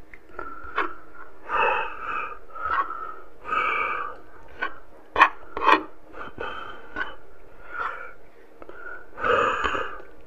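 Close-miked eating sounds: chewing and lip-smacking on soft pork and rice eaten by hand, with sharp wet mouth clicks and breaths through the nose between bites.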